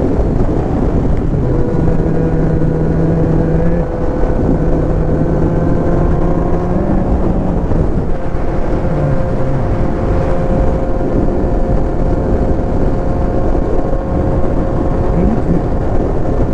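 Kawasaki Z900's inline-four engine running at a steady road speed, with a constant rush of wind over the microphone; its pitch holds steady, dips briefly about four seconds in and shifts a few times a little after the middle.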